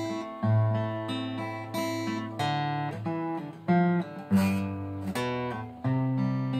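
Acoustic guitar strumming chords, each chord struck and left to ring.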